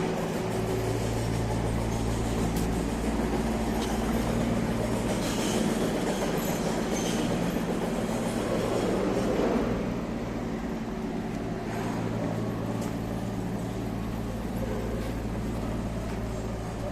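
Electric commuter train passing on the line by the station: a rail rumble that swells to a peak about nine seconds in, then falls away over a steady low hum.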